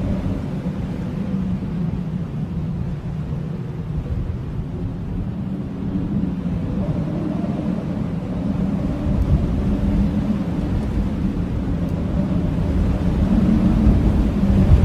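Blizzard wind howling: a deep, steady rush with low moaning tones that waver in pitch, growing a little louder in the last few seconds.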